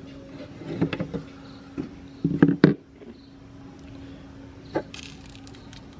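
Electric meat grinder's motor running with a steady hum, with scattered sharp cracks and knocks, loudest in a cluster about halfway through.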